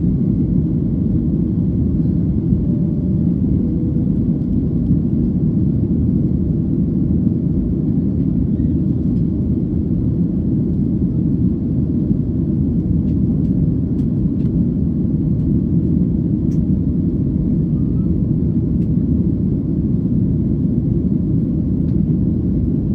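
Steady low rumble of a Boeing 737 airliner's engines and airflow, heard inside the passenger cabin in flight.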